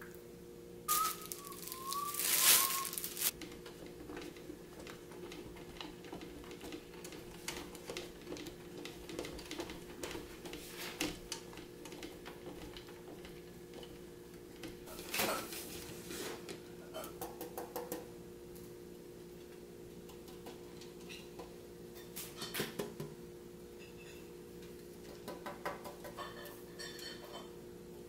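Cooking sounds: a metal spoon scraping and knocking in a skillet of rice-and-bean filling, with a loud scrape and squeal about two seconds in, then cheese being grated on a metal box grater, quick rasping strokes in the last few seconds. A steady low hum runs underneath.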